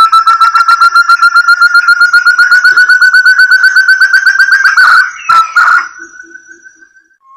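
Recorded lure call of a forest partridge (burung terung): a fast series of clear whistled notes, about ten a second, slowly rising in pitch. About five seconds in it breaks off with two sharp clicks, then trails away in a fading whistle before the series starts again at the end.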